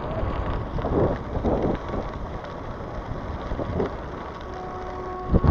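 Wind rumbling on the microphone together with the tyre noise of a gravel bike being ridden, with a couple of short bumps near the end.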